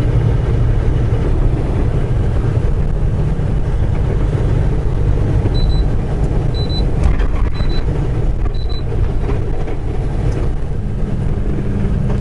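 Steady engine and road rumble inside a moving semi truck's cab, with four short high-pitched beeps about a second apart midway through.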